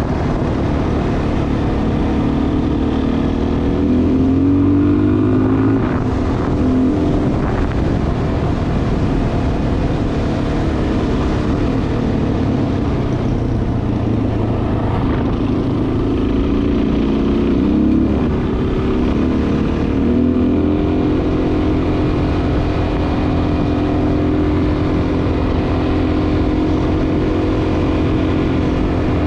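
Dual-sport motorcycle engine running while being ridden, its revs dipping and climbing twice, then holding steady.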